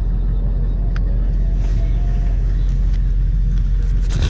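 Steady low rumble of a motor vehicle, engine and road noise, cutting off sharply at the very end.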